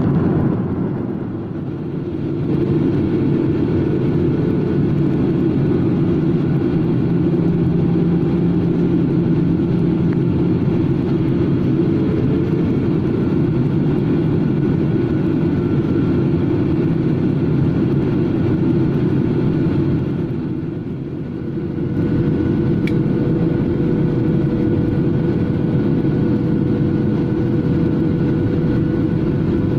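Steady rumble of a passenger airliner's cabin in flight, engine and airflow noise, with a couple of faint steady tones above it. The level dips briefly about a second and a half in and again about two-thirds of the way through.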